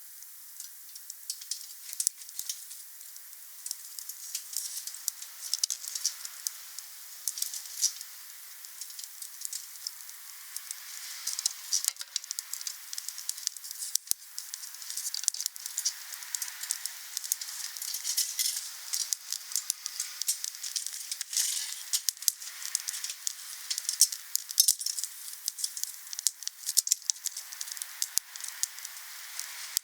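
Wood fire crackling: frequent irregular sharp pops and snaps over a steady hiss, getting busier about a third of the way in.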